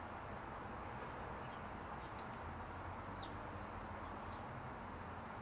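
Quiet steady background hiss with a few faint, short, high chirps from birds, two of them clearer about two and three seconds in.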